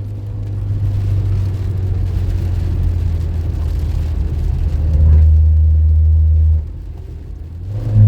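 Car engine running with a steady low drone that changes with load: rougher for the first few seconds, louder and steady about five seconds in, then dropping off suddenly and coming back near the end.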